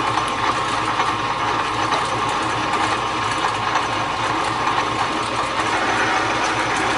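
Metal lathe running steadily while a 5/8-inch drill bit is fed into the part, a continuous machine hum with a steady whine.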